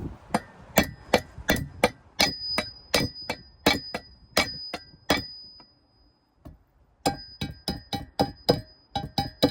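Metal being struck repeatedly, about three sharp clangs a second, each leaving a high ringing tone. The strikes stop for about a second and a half a little past halfway, then resume in a quicker run.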